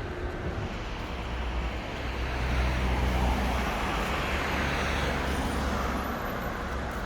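Heavy vehicle's low engine rumble with a rushing noise that swells about two seconds in and eases off near the end.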